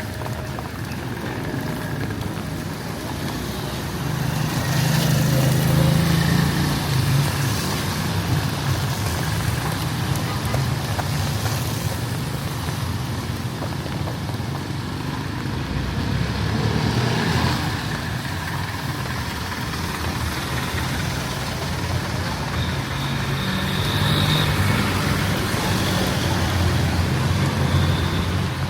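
Street traffic: motor vehicles passing close by, their engine rumble swelling about four seconds in, again around the middle, and near the end. Under it runs a steady hiss of rain.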